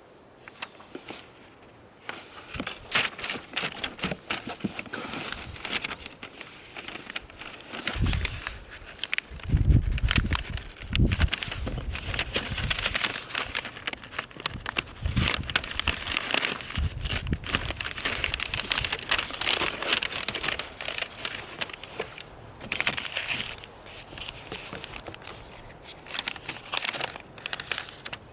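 Dense, irregular crinkling and crackling handling noise, with a few low thumps in the middle.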